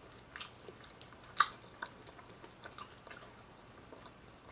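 A person chewing food close to the microphone, with a few short, sharp mouth clicks over quiet. The sharpest click comes about a second and a half in.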